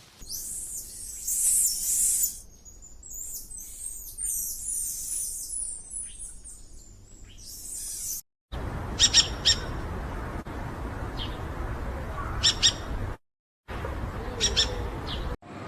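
Birds calling in short, very high-pitched chirps and squeaks, including runs of quick descending chirps. The sound breaks off abruptly twice and resumes with sharper chirp clusters over a steady background hiss.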